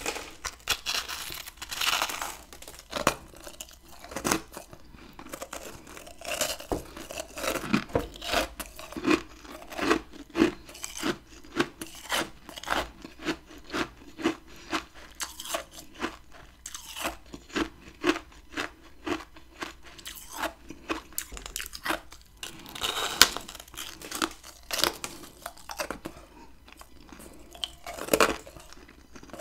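Close-up crunching and chewing of chunks of freezer frost ice: a few loud, sharp bites, and between them a steady chewing rhythm of about one and a half crunches a second.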